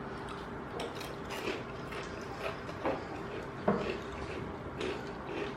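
Close-up eating sounds: irregular crunching and smacking clicks from chewing crisp fried food, with one sharper crunch a little past the middle.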